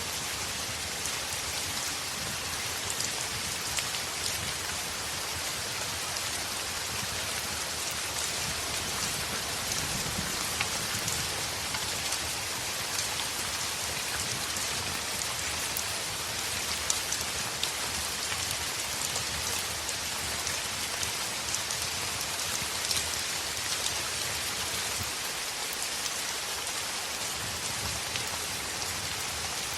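Steady heavy rain on a window, an even hiss with scattered sharp ticks and pops.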